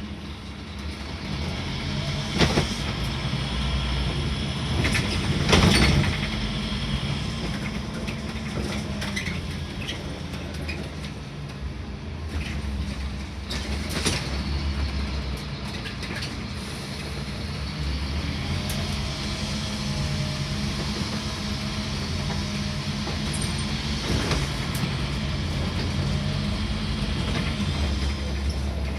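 Scania N230UD double-decker bus heard from the upper deck on the move: its five-cylinder diesel engine drones steadily, its pitch stepping up and down with the gear changes. Sharp knocks and rattles from the body come through a few times, loudest about six seconds in.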